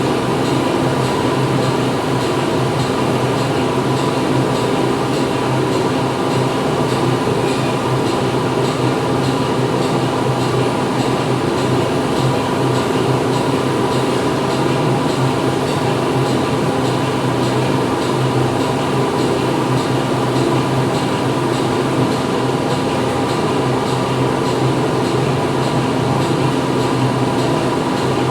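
Factory machinery running steadily: a dense, unchanging mechanical din with a low hum and a held mid-pitched tone, and a faint regular clicking in the background.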